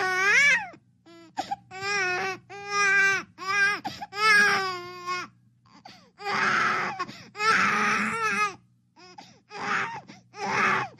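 An infant crying: a run of wavering, high-pitched wails, turning into harsher, raspier cries about six seconds in, over a faint steady hum.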